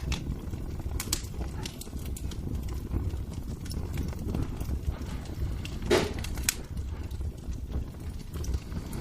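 Fireplace fire crackling: scattered sharp pops and snaps over a steady low rumble, with one louder crack about six seconds in.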